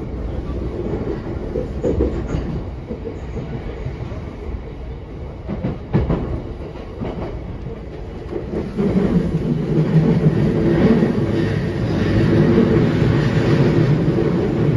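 Inside-the-car running sound of a JR East E131-500 series electric train: the car rumbles along and the wheels knock over rail joints a few times. About nine seconds in, the noise grows louder and a steady humming tone joins in.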